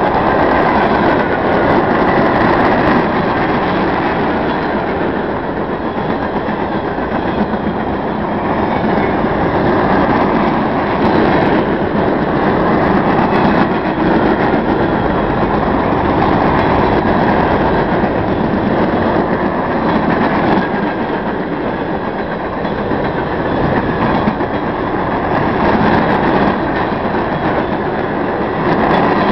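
Hopper cars of a coke unit train rolling past, steel wheels on rail making a steady, loud rumble.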